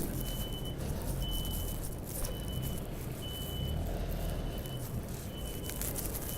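A vehicle's reversing alarm beeping about once a second, each beep a steady high tone about half a second long, over a low engine rumble.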